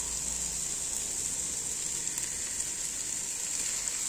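Cabbage frying in the hot pot of an electric rice cooker, sizzling with a steady, even hiss.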